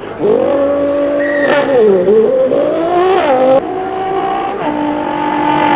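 A man imitating a sports car engine with his mouth: a buzzing engine note that revs up and down, then holds steadier higher notes with abrupt jumps in pitch in the last couple of seconds, like gear shifts.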